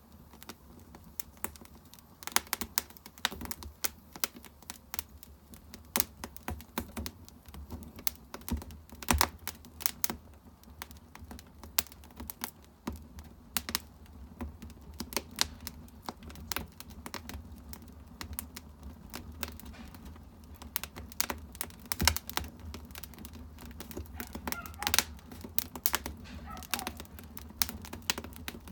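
Firewood burning in an agungi, a traditional Korean wood-fired firebox, crackling and popping irregularly over a low, steady sound of the fire.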